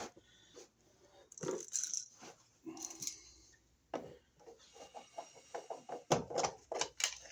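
Irregular clicks, knocks and scraping of hands and tools working at a worn wall receptacle, with a quick run of clicks over the last few seconds.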